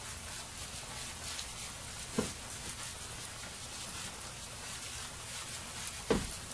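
Steady rain pattering, with many small drop ticks, and two short, louder thuds, one about two seconds in and one near the end.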